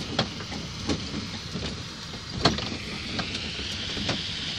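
Small ride-on park train running, a steady rumble with a sharp clack about every three quarters of a second.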